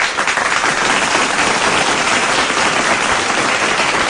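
Applause, a dense, even sound of many hands clapping, played on air as a studio sound effect on the host's call to clap for a child caller.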